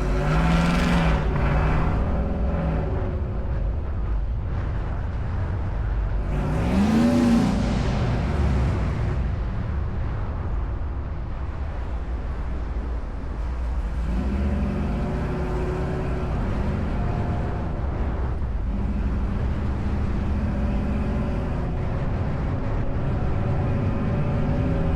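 Car engines running. One revs up and back down about seven seconds in, after a shorter rise and fall at the start, and engines idle steadily through the second half.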